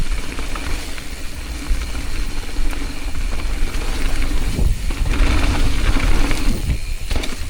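Mountain bike rolling down a wet dirt trail, with a steady low rumble of wind on the microphone.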